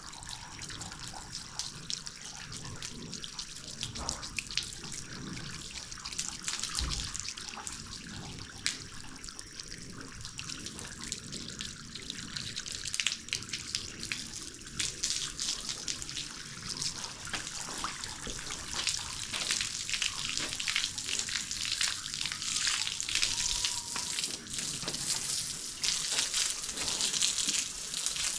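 Water running from a hose and spattering as a horse is washed down, the splashing growing busier in the second half.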